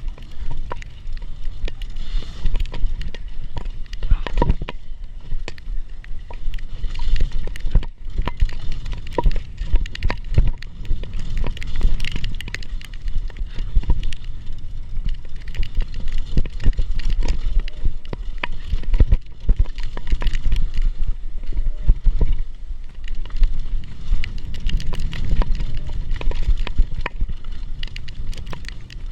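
Mountain bike riding a rough downhill trail: tyres rolling over dirt and rock, with continuous rattling clicks from the bike and a low rumble.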